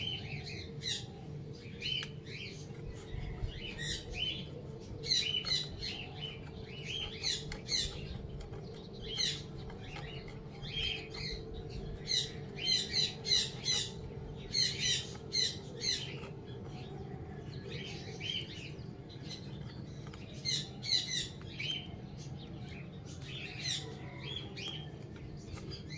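Small birds chirping and twittering, many short high calls coming in quick clusters and overlapping, over a faint steady low hum.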